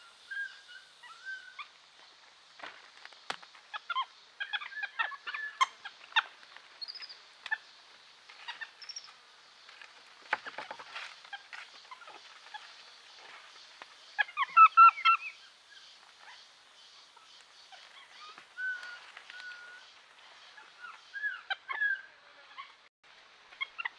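Birds calling: scattered short chirps, whistles and squawks, with a dense loud flurry of calls about halfway through, over a steady high background hiss.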